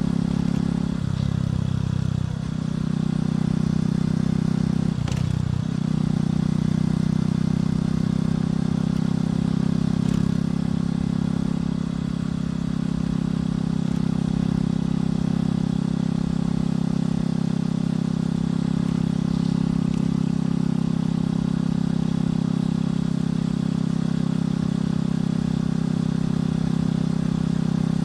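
Motorcycle engine and exhaust running steadily while riding. The engine note briefly shifts about a second in and again around five seconds, then holds an even pitch.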